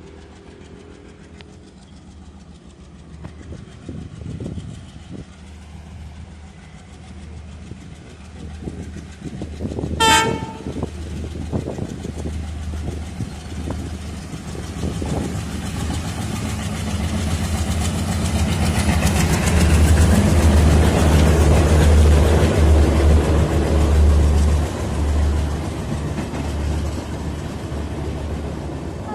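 Indian Railways express train approaching and passing, with one short horn blast about a third of the way in. The rumble and wheel clatter build up to their loudest about two-thirds of the way through, then ease off slightly.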